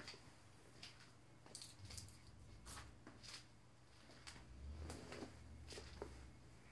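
Near silence: room tone with a scattered series of faint clicks and taps, and a faint low rumble about two seconds in and again in the second half.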